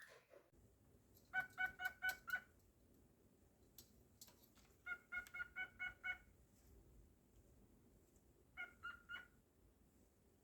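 Cockatiel calling in three short bursts of quick, repeated chirps, the middle burst the longest.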